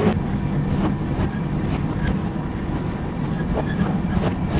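A Chemins de Fer de Provence diesel railcar running along the metre-gauge track, heard from aboard: a steady engine drone with scattered clicks from the wheels on the rails.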